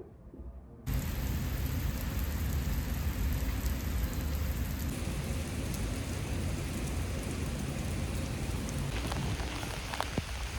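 Steady rain falling, with a low rumble underneath, starting abruptly about a second in.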